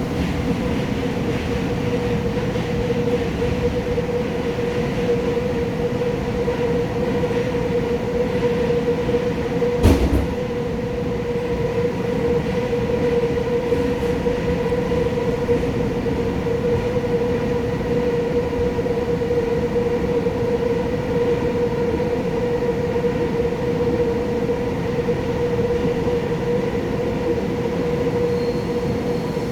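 A new Woojin-built Busan Metro Line 1 electric train running at speed between stations. Its running noise carries a steady hum, and there is a single sharp knock about ten seconds in.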